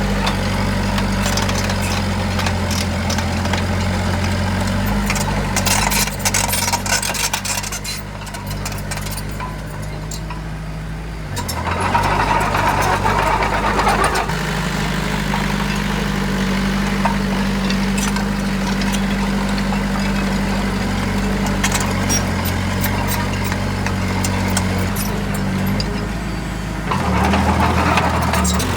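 Heavy diesel construction machinery running steadily. Its engine note shifts a few times, with a patch of rattling clicks a few seconds in.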